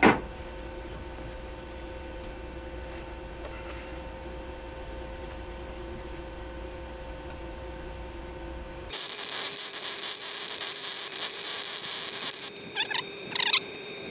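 A clank, then the steady hum of a MIG welder at rest. About nine seconds in, the welding arc strikes and crackles with a steady sizzle as a thin steel plate is tacked in. It breaks off briefly near the end and then starts again.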